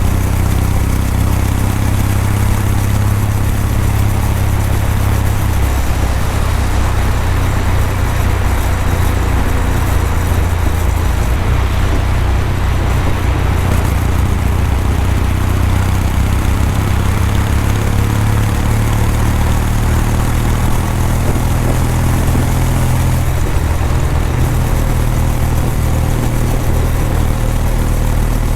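Kawasaki W800's air-cooled parallel-twin engine and exhaust running steadily while the motorcycle is ridden, with small rises and falls in engine pitch.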